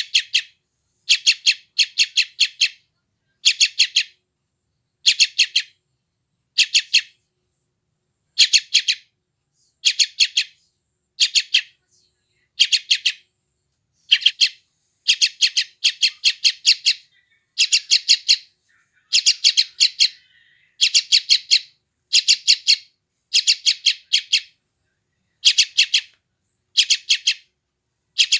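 Yellow-vented bulbul (trucukan) chick calling: short bursts of three or four rapid, high chirps, repeated about once a second.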